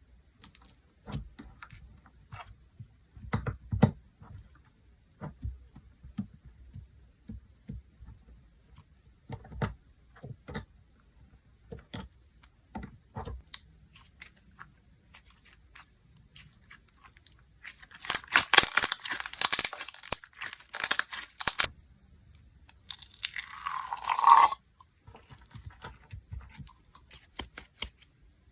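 Hands squishing and poking slime, with scattered wet clicks and pops. About two-thirds of the way in comes a dense run of crackling, and shortly after it a short tearing sound that drops in pitch as the slime is stretched apart.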